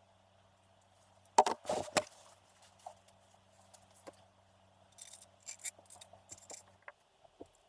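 Metal tools and engine parts being handled on a workbench: a cluster of sharp clanks about a second and a half in, then lighter clicks and jangling clinks, over a steady low hum that stops near the end.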